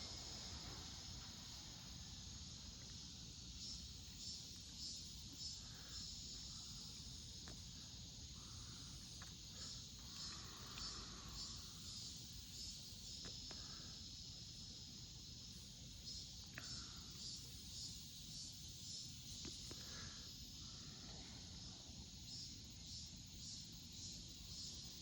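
Faint summer insect chorus, a steady high-pitched chirring that pulses in regular beats, with a few soft clicks.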